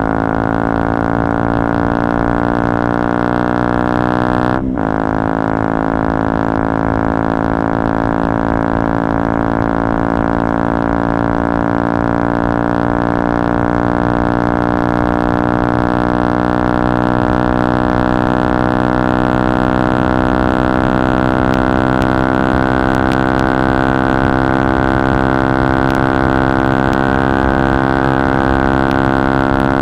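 KTM Duke 125's single-cylinder four-stroke engine running hard through a Radical Racing GP Carbon Black Line exhaust with its dB-killer out, so the exhaust is unbaffled. About five seconds in, the engine speed drops sharply and picks up again at a gear change. After that the engine speed climbs slowly and steadily under a long pull.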